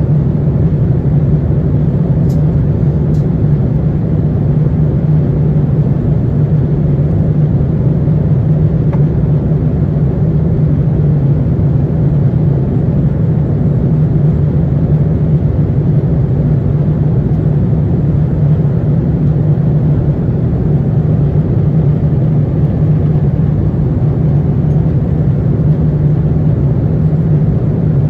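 Steady, loud cabin roar of an Airbus A350-900 in flight: engine noise and airflow as a low, even drone that doesn't change.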